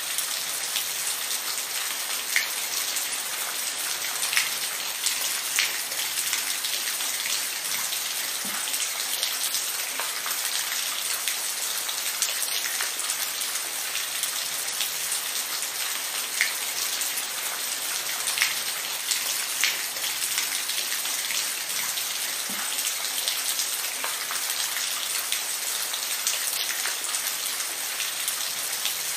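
Steady rain falling, a continuous hiss with scattered louder drips and drops striking a surface every second or two.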